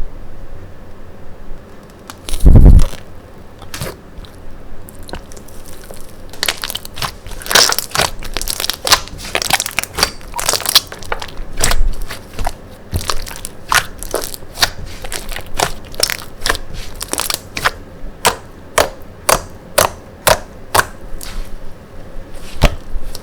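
Hands playing with slime: a run of sharp crackling pops and clicks, about two to three a second, after a single low thump near the start.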